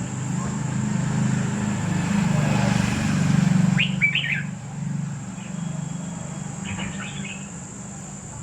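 Short bursts of bird chirping, two quick clusters about four and seven seconds in, over a steady low hum that grows louder around the middle and then fades.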